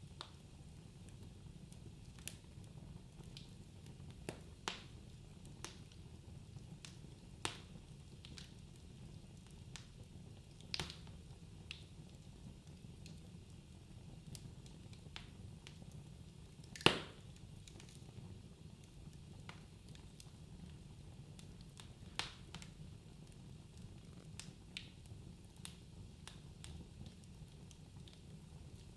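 Wood fire burning in a fireplace: a low steady rumble with irregular crackles and pops, the loudest a sharp snap about two-thirds of the way through.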